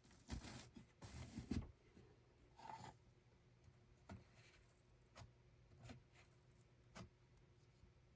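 Faint rustling and scraping for the first second and a half, then a short rub and a few single light clicks spaced about a second apart.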